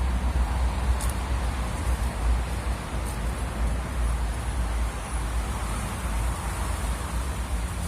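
Strong wind of about 60 km/h gusting against the microphone: a deep buffeting rumble with a rushing noise that swells and eases.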